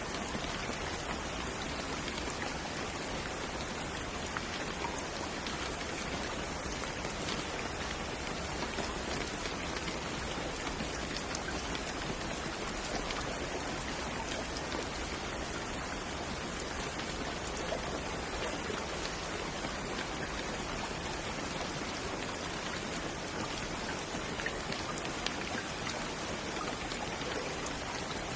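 Steady rain falling, a dense even hiss with scattered small drop ticks, used as sleep white noise.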